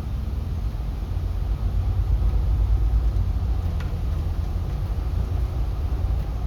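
Steady low rumble of a city bus driving, engine and road noise heard from inside the cabin, swelling a little partway through.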